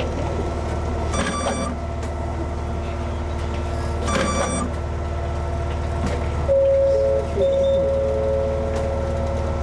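Konan Railway 7000 series electric train running, with a steady low hum throughout. Two brief metallic rings come about a second and four seconds in, and a steady high tone sounds for about three seconds from past halfway, with a short break in it.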